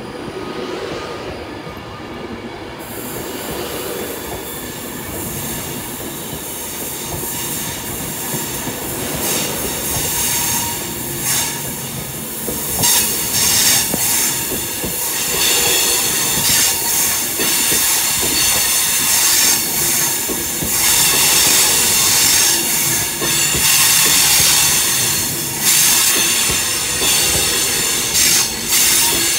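Class 390 Pendolino electric train running into the station, growing steadily louder over the first dozen seconds, then louder still with high wheel squeal and repeated clacks of the wheels over the track.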